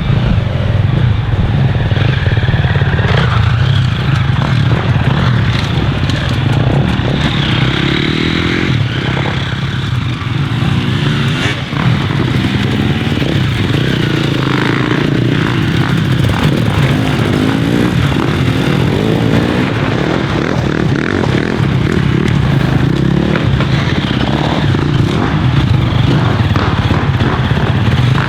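Dirt bike engine running loud and continuous, its pitch rising and falling as the throttle is worked.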